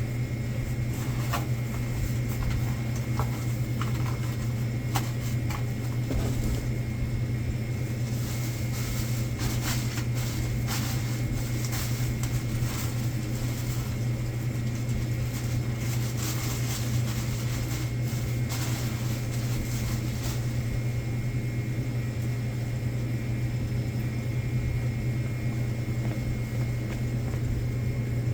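A steady low machine hum, with scattered light clicks and knocks of stock being handled. The hum cuts off as the recording ends.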